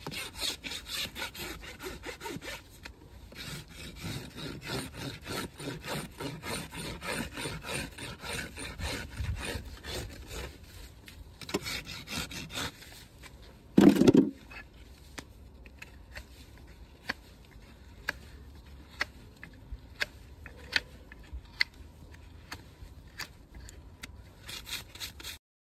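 Farrier's rasp scraping a shire horse's hoof in repeated strokes for about the first half. A single loud thump about 14 s in, then only faint scattered scrapes and clicks.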